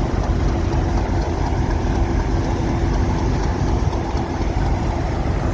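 A train's engine idling: a steady low rumble with a faint steady hum over it.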